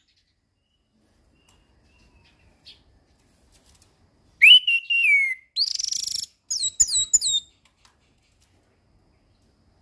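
Orange-headed thrush singing one phrase about halfway in: a whistled note that slides down, a short harsh rasp, then a quick run of about four falling notes.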